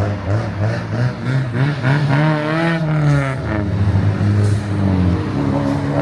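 Car engine revving as a car pulls away, its note climbing about two seconds in and falling off again about a second later. Under it a lower engine note holds steady and drops away near the end.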